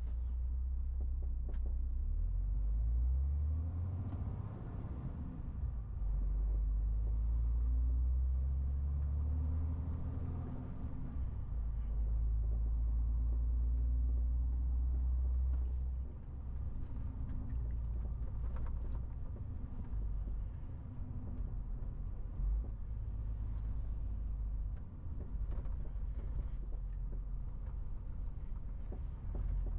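MAN TGX 18.470 truck's six-cylinder diesel engine running as the truck is driven: a low drone that shifts in pitch and strength several times and eases off about sixteen seconds in, with faint scattered clicks and knocks.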